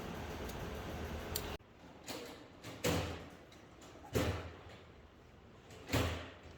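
A steady hum that cuts off suddenly, followed by three separate knocks, each dying away quickly, spaced a second or two apart.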